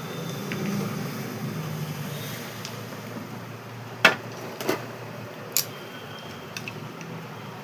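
Three sharp clicks of metal parts and tools being handled while a mixer grinder motor is reassembled, about four, four and a half and five and a half seconds in, over a steady low hum.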